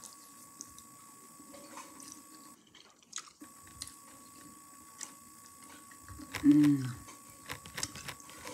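Close-up chewing and small wet mouth clicks of someone eating a mouthful of noodles, with a brief hummed voice sound about six and a half seconds in.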